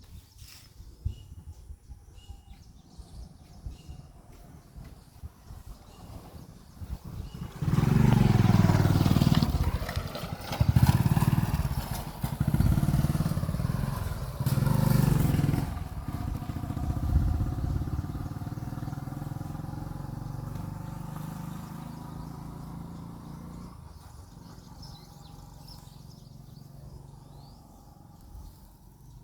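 A motor vehicle engine comes up loudly about a quarter of the way in, its pitch rising and falling for several seconds, then fades away gradually as it moves off.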